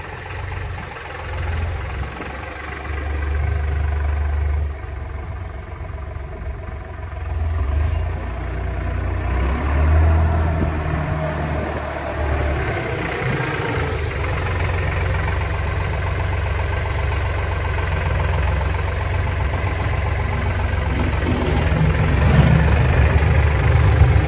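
Kioti DK65 tractor's diesel engine running steadily, its level rising and falling as the load and speed change, with a louder surge near the end.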